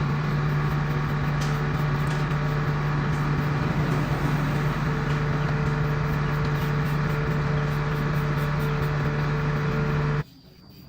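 A machine's motor running at a steady speed with a constant low hum, which cuts off abruptly near the end.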